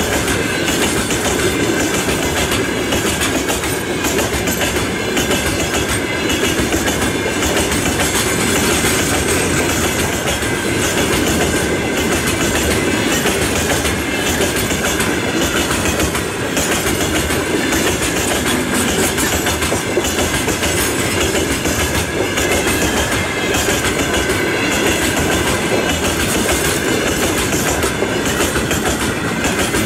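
Freight train of open-top gondola wagons passing: a loud, steady rumble with the clickety-clack of the wheels over the rail joints.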